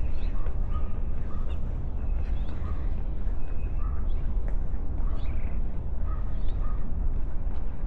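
Wind buffeting the microphone in a steady low rumble, with birds calling in short notes repeated every second or so.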